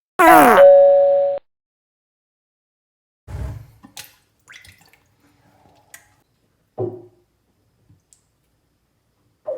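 A short chime-like sound effect with falling tones over two held notes, cut off abruptly, followed by scattered small knocks and splashes of bathwater.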